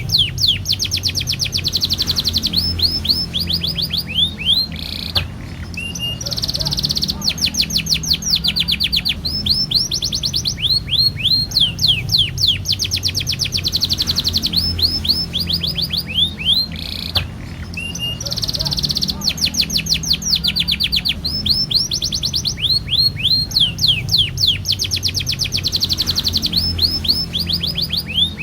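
Domestic canary singing a long rolling song: fast trills of rapid repeated sweeping notes, run after run with only brief breaks between phrases.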